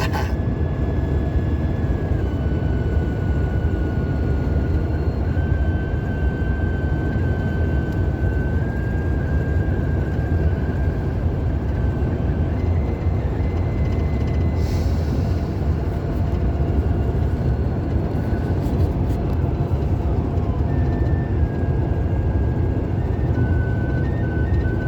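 Steady road and engine rumble inside a moving car's cabin, with a faint high whine that holds steady and shifts pitch slightly now and then.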